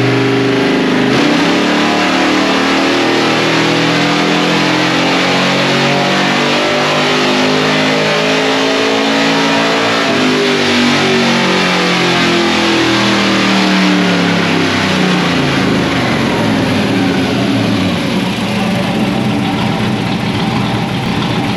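1961 Ford gasser truck's small-block V8 making a full-throttle pull on chassis dyno rollers. About a second in the throttle opens and the engine note climbs steadily to about halfway, then falls away as the engine winds back down.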